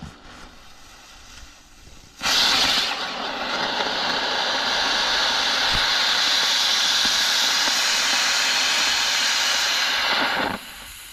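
A firework spraying with a loud, steady hiss for about eight seconds, starting abruptly about two seconds in and cutting off just before the end, with no bangs.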